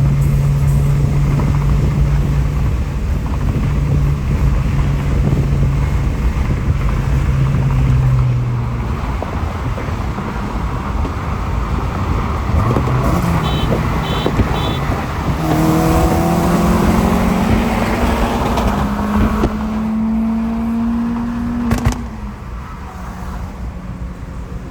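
Car engine running steadily, then climbing in pitch as the car accelerates. Three short high beeps come about halfway through, and a sharp click near the end is followed by a quieter stretch.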